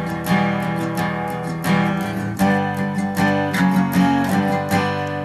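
Acoustic guitar strummed in a steady rhythmic pattern, playing a barre chord on the third fret that shifts down one fret and back. The last chord is left ringing and fades near the end.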